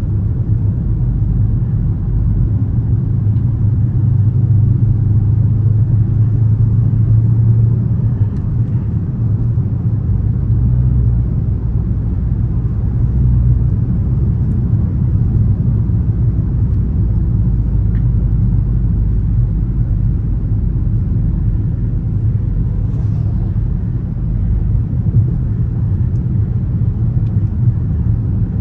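Dodge Charger R/T's 5.7-litre HEMI V8 running steadily while the car is driven, a low, even drone with road noise and no hard acceleration.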